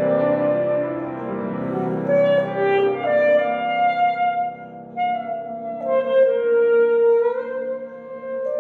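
Alto saxophone playing a slow melody of long held notes over piano accompaniment, with short breaths between phrases.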